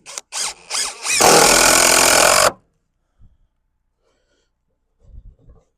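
Handheld electric circular saw, blipped on in a few short bursts, then run for about a second and a half before it cuts off suddenly.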